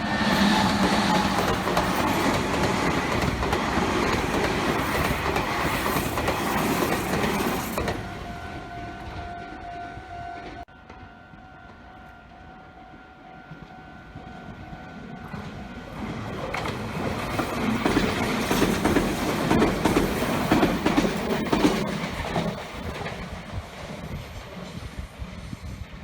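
Train running along the track, its wheels clacking over the rail joints. Loud for the first eight seconds, then quieter with a steady tone for several seconds, then louder again before fading away near the end.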